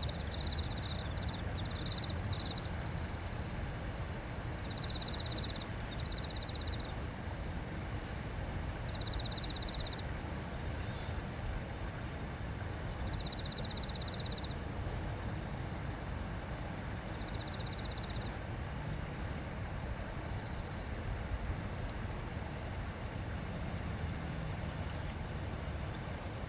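A river babbling steadily. A short, high, pulsed trill from a small animal repeats about seven times, every few seconds, over the first two-thirds.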